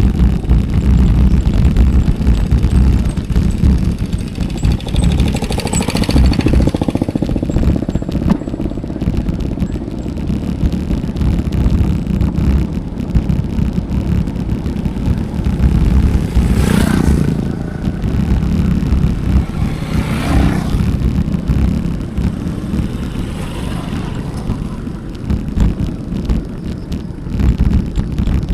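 Wind rumbling on a bike-mounted action camera's microphone while riding. Motor vehicles pass by three times, about six seconds in and twice more past the middle.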